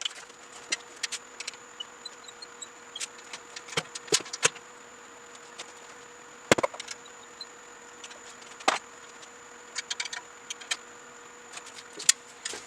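Scattered sharp clicks and knocks of hands working with tools and parts, irregular and unevenly loud, over a steady faint hum.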